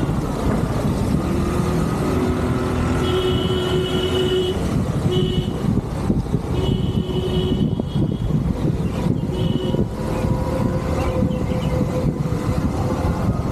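Motorcycle ride in city traffic: steady engine and road-wind rumble, with vehicle horns honking several times, a longer honk about three seconds in and shorter ones around five, seven and nine seconds. A steady hum joins in near the end.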